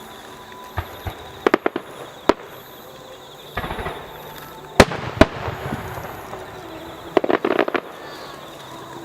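Aerial firework shells bursting in an irregular series of sharp bangs, some single and some in rapid clusters, with the two loudest about five seconds in. One burst near the middle is followed by a second or so of crackling.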